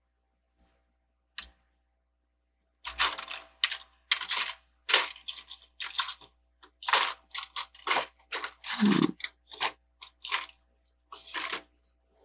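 Plastic Lego bricks clattering and clicking in a rapid run of short bursts as loose pieces are handled and sifted, with one heavier knock near the middle.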